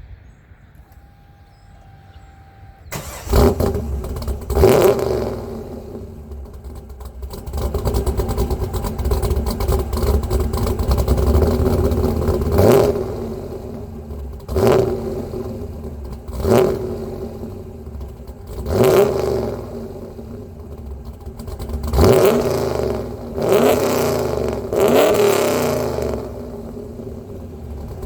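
1999 Pontiac Trans Am Firehawk's cammed LS1 V8, breathing through long-tube stainless headers and an SLP muffler, starting from cold about three seconds in, flaring up and then settling to a fast cold idle. In the second half the throttle is blipped repeatedly, about one rev every two seconds.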